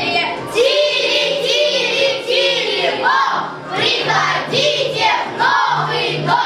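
Children singing a song together to instrumental backing music, with held bass notes under the melody.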